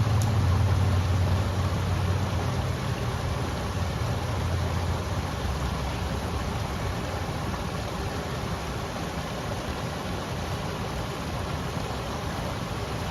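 River water flowing with a steady rushing hiss. A low rumble under it fades away over the first few seconds.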